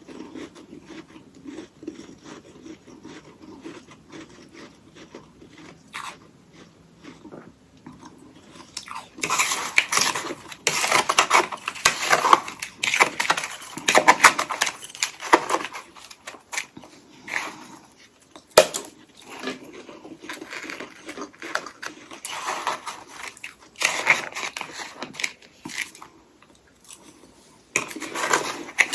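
Close-miked biting and chewing of hollow ice sticks coated in freezer frost. Softer chewing for the first several seconds, then loud, repeated crunching from about nine seconds in, and again near the end.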